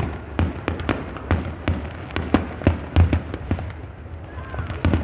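Fireworks finale barrage: rapid, overlapping bangs of bursting shells, several a second, over a continuous low rumble.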